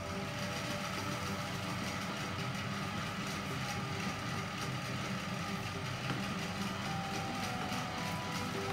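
Gas stove burner running under an empty pot as it preheats: a steady low rumble.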